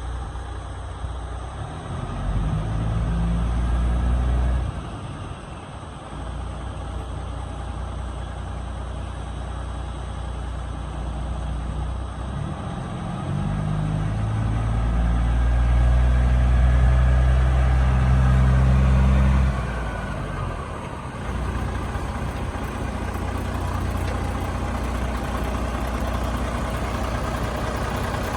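Diesel engine of a 1999 Kenworth W900B truck tractor running at idle. Twice it runs louder and higher-pitched, for a couple of seconds about two seconds in and for about six seconds near the middle, then drops back to idle.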